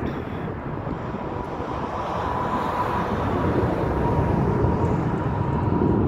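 Jet airliner engines running on the ground: a steady rumble with a thin, high whine that swells midway, the whole growing slowly louder.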